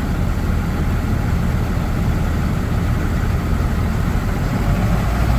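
Cummins 6.7-litre inline-six diesel of a 2010 Ford F-750 idling with a steady low rumble.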